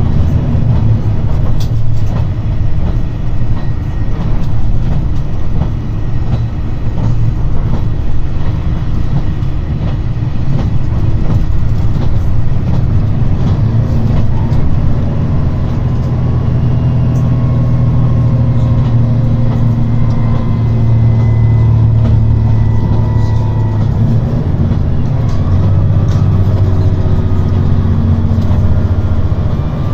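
JR Shikoku 2700 series diesel railcar running at speed, heard inside the car: a loud, steady engine drone. In the middle, a fainter whine slowly rises in pitch.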